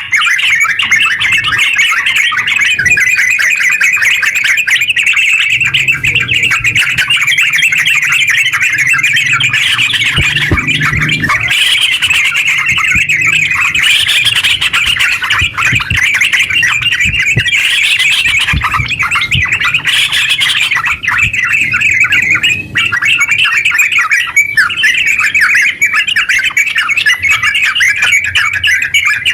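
Yellow-vented bulbul (terucuk) singing its long, rapid chattering 'ngeropel' song, a loud unbroken stream of quick notes.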